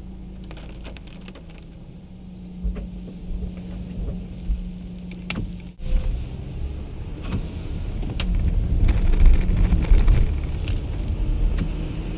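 Car running on the road through a storm: steady engine hum and road noise. After a sudden break about six seconds in, a louder low rumble of wind and road swells and peaks near the end, with scattered clicks.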